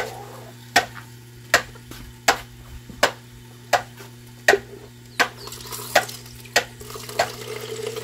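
Chopped onion, bell pepper and seasoning sizzling in a pot. A sharp click repeats about every three-quarters of a second over the sizzle.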